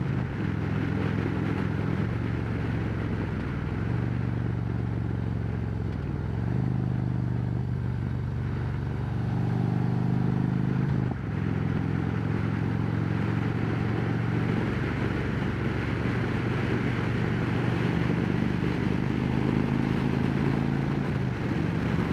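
Harley-Davidson Road Glide Special's V-twin running under way through Rinehart slimline true-dual exhausts. The engine pitch steps up and down several times, with a brief drop about eleven seconds in, and wind rushes over the helmet-mounted microphone.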